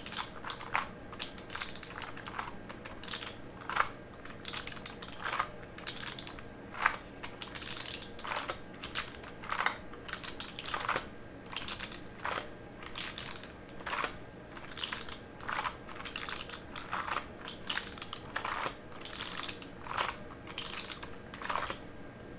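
Typing on a mechanical keyboard: clicking keystrokes in short runs of several keys, with brief pauses between runs.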